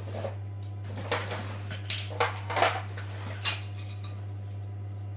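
Metal tools and parts clinking and clattering in a series of sharp knocks, over a steady low hum.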